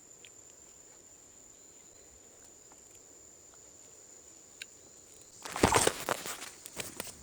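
Steady high-pitched insect buzz of the rainforest. About five and a half seconds in, a loud burst of crackling and rustling cuts in over it.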